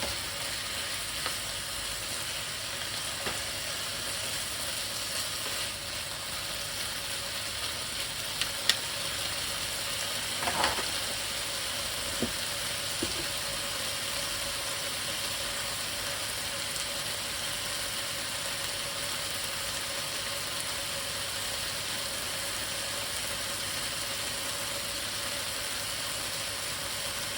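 Sliced chicken and onions sizzling steadily in a hot frying pan. A few short clicks or knocks come between about nine and thirteen seconds in.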